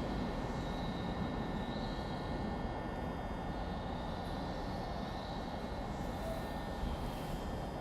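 Steady low rumble of railway station platform ambience, easing slightly in loudness, with faint thin tones above it.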